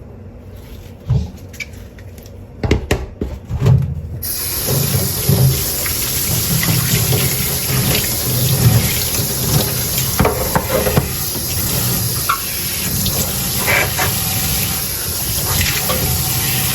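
A few knocks and clinks of dishes, then about four seconds in a kitchen tap comes on and water runs steadily into the sink. Dishes clink now and then under the running water as they are washed by hand.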